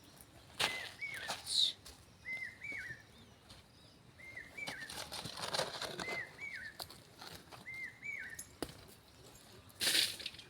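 A bird repeating a short two-note call about every two seconds, five times, with scattered scraping and rustling sounds around it and a louder scrape near the end.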